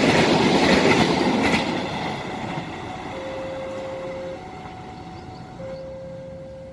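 A passing train's rumble and wheel noise, loud at first and fading away over about two seconds. From about three seconds in it is followed by long held tones alternating between two pitches.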